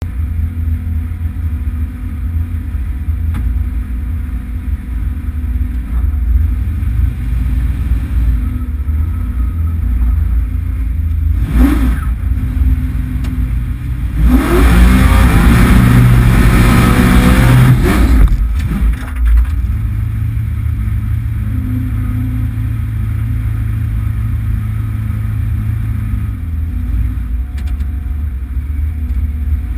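Drag car's engine heard from inside the cabin, idling, with a short rev about twelve seconds in. It is then held at high revs for about four seconds, its pitch rising and falling, before dropping back to a steady idle.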